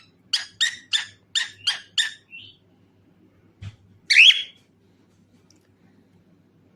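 Cockatiel calling: a quick run of six short, harsh chirps in the first two seconds, then a single louder call that falls in pitch a little after four seconds.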